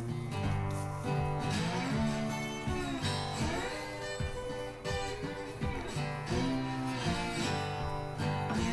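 Background music played on acoustic guitar, plucked notes with some bent and sliding notes.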